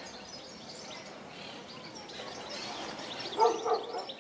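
Several small songbirds chirping and singing in quick, overlapping high notes. Near the end comes a brief, louder, lower-pitched call or voice.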